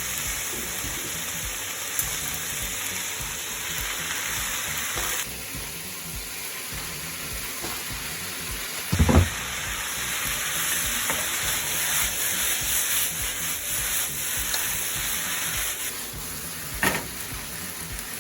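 Yaki udon ingredients (pork, carrot and cabbage) sizzling in a hot pan while being stirred, with a loud knock of the utensil against the pan about halfway through and a smaller one near the end.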